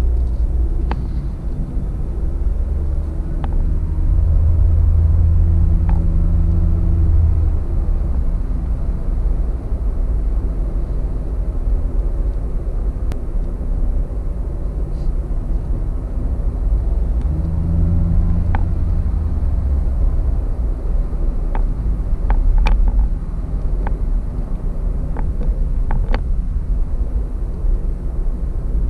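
Car cabin noise at highway speed: a steady low road and engine rumble. The engine hum grows stronger twice, about four seconds in and again about seventeen seconds in, and a few small clicks or rattles come near the end.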